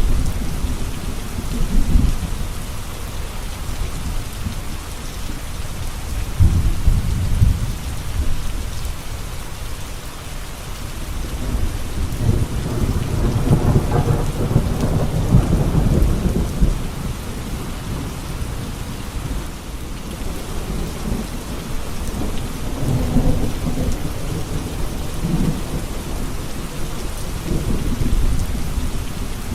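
Steady rain falling, with low rolling thunder that swells and fades several times. The longest roll comes about halfway through.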